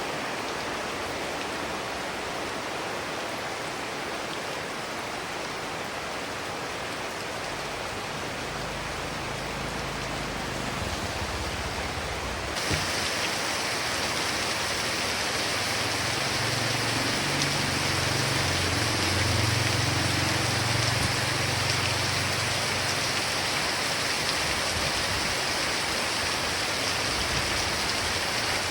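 Heavy rain falling steadily. About twelve seconds in, it suddenly turns louder and hissier, and a low rumble runs underneath through much of the middle.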